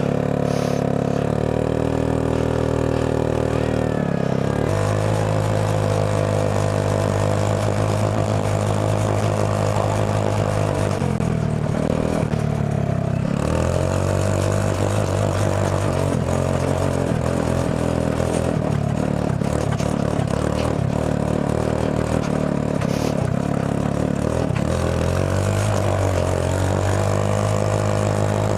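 Go-kart engine running under way, holding a steady note that drops and rises again a few times as the kart slows and picks up speed.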